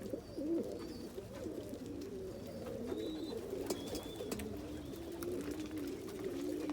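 Several domestic pigeons cooing steadily in a loft, their low wavering coos overlapping.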